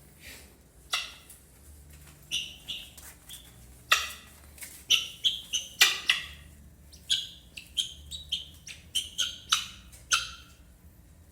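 Helmeted guineafowl giving short, harsh calls in a quick irregular series, about twenty in all, some coming in pairs and threes.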